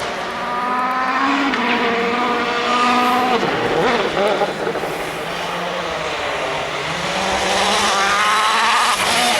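Rally car engine at full throttle, its pitch climbing as it revs up through the gears, easing off briefly about three and a half seconds in, then building again.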